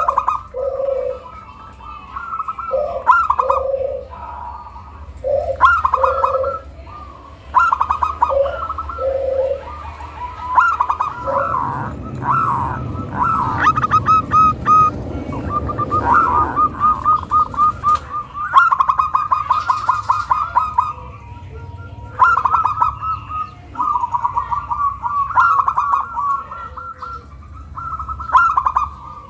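Zebra dove (perkutut) singing its cooing song, phrase after phrase every couple of seconds, each a quick stuttering trill over lower coos. This is the song used as a lure to set other doves singing. A stretch of low rushing noise comes in about halfway through.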